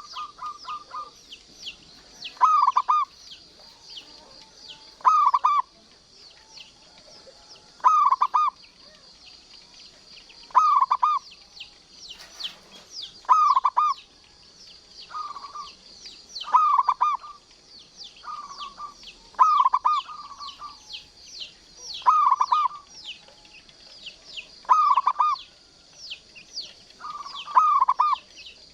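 Zebra dove (local perkutut) singing: short coo phrases repeated about every two and a half seconds, about a dozen in all, over steady high chirping in the background.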